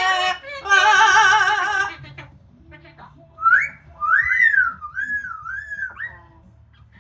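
Amazon parrot vocalizing: a loud wavering, warbling sung note in the first two seconds, then a series of whistled notes that glide up and down.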